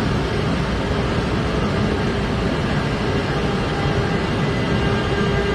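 A train running past: a loud, steady rushing rumble, with a steady whining tone that grows stronger toward the end.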